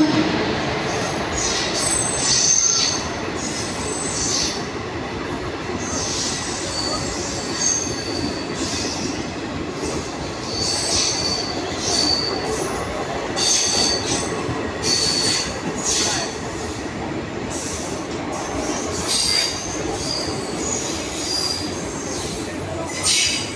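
A train rolling along the rails, with short high-pitched wheel squeals coming again and again over a steady rumble.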